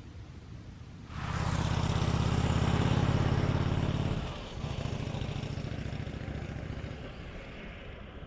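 A motor vehicle's engine comes in suddenly about a second in, runs loudest for about three seconds, then drops to a lower steady note that slowly weakens.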